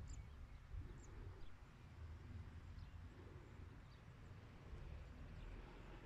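Faint open-air ambience: a few short, high bird chirps scattered over a low, steady rumble.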